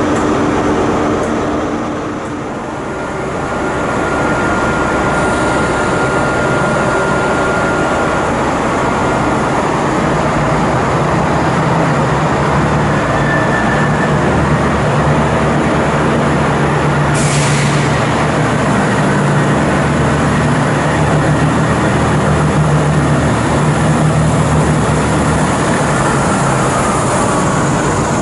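A passenger train running on the line, with a steady mechanical drone and a low hum that continue throughout. The sound dips briefly about two seconds in, and there is a short hiss around the middle.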